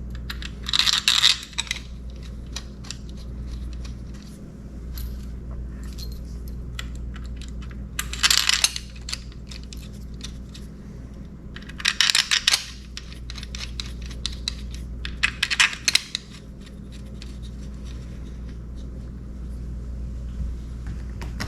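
Short bursts of metallic clinking and rattling, four times, as tools and small metal parts of an outboard motor are handled, over a steady low hum.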